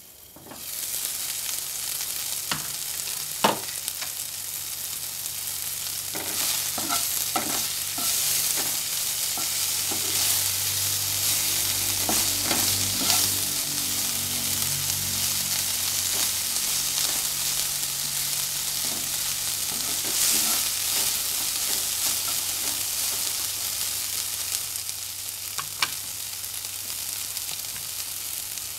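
Shredded banana flower frying in oil in a nonstick wok, with a steady sizzle that jumps up about a second in as the glass lid is lifted off. A spatula stirs and scrapes through it, with scattered sharp taps against the pan.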